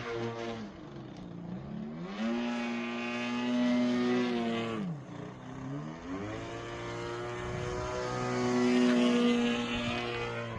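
Gas engine and 20x9 propeller of a 73-inch AJ Aircraft Raven RC plane (GP38 engine) running in flight. The note climbs and holds, drops sharply about halfway through, then climbs back and holds steady before starting to fall near the end.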